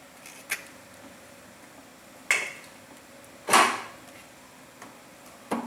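Metal tools and engine parts knocking and clanking during hands-on engine assembly: four separate hits, the loudest about three and a half seconds in with a short ringing decay.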